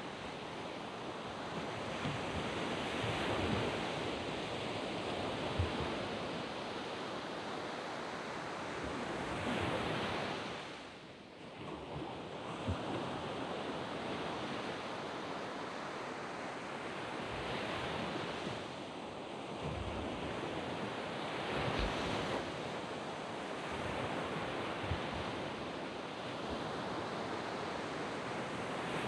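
Surf breaking and washing up a sand beach: a continuous rushing wash that swells and eases as each wave comes in, with a short lull about eleven seconds in.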